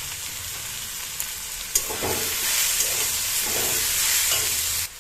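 Fenugreek greens and fried brinjal sizzling in oil in a kadai as they are stirred, with a sharp tap just before two seconds in. The sizzle gets louder about two seconds in and cuts off abruptly near the end.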